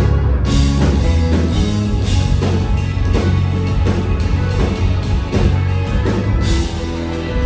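A rock band playing an instrumental passage with no singing: sustained bass notes and pitched instruments over a steady run of drum hits.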